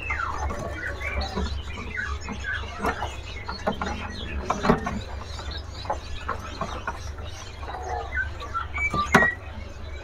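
Caged small songbirds chirping and squeaking with many short notes and quick rising and falling calls, a few sharp knocks among them, over a steady low hum.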